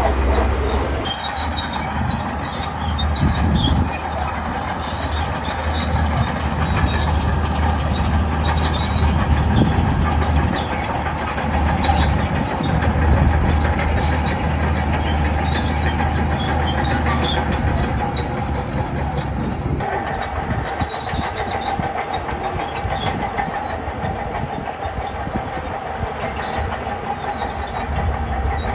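Shantui crawler bulldozer working: a steady diesel engine drone with the clanking and clinking of its steel tracks. The sound changes abruptly about twenty seconds in, the deep rumble dropping away.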